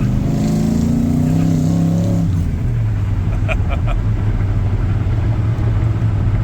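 A truck's 572 cubic inch V8 engine revs, its pitch rising for about two seconds, then drops back to a steady idle.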